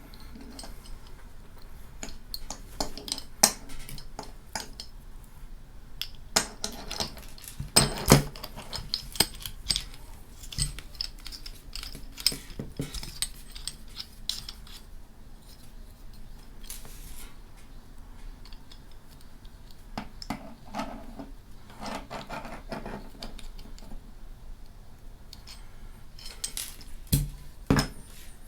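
Small hard metal and plastic parts clicking and clinking as they are handled and fitted together: action-camera mount brackets and adapters. The clicks come irregularly, thickest in the first half with the loudest about 8 seconds in, then again near the end.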